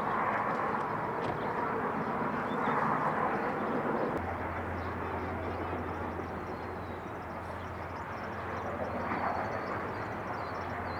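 Outdoor field-recorded noise, steady and without rhythm, with a low steady hum joining about four seconds in.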